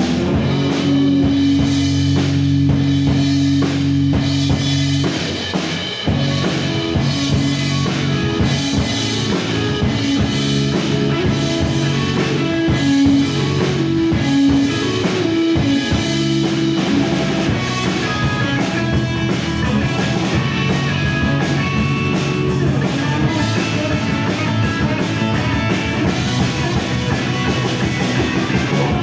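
A rock band playing instrumental music at a sound check: drum kit and guitar, with sustained held notes over steady drumming and a short dip in loudness about five seconds in.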